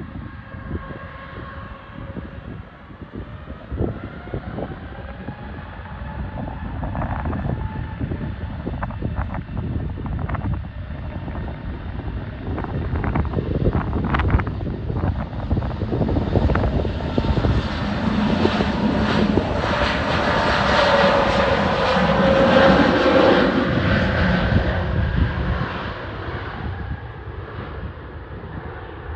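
Airbus A320neo (A320-271N) jet with Pratt & Whitney geared turbofan engines at takeoff power. The engine noise builds steadily, is loudest about two-thirds of the way through as the jet passes, then fades.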